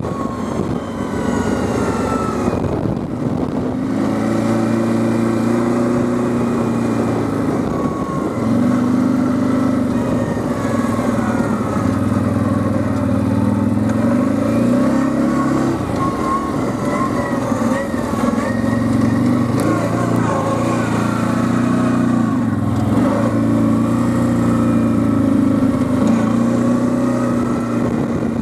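Quad bike engine running under way, its pitch rising and falling again and again as the throttle opens and closes.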